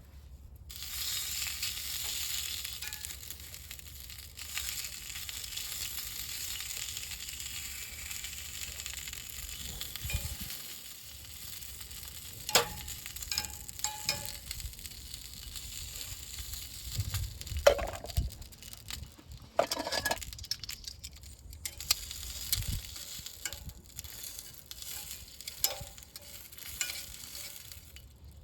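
Food sizzling on a hot grill over a wood fire. The sizzle starts suddenly about a second in and is broken by a few sharp knocks.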